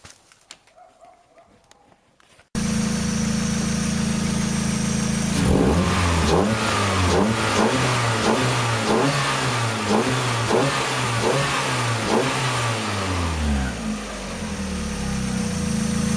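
Turbocharged Mazda MX-5 four-cylinder engine through a 2.75-inch Mitsubishi Evo VI exhaust. It idles, then is blipped in about ten quick revs, roughly one a second, and drops back to idle near the end. A few faint clicks are heard in the quiet before the engine comes in abruptly.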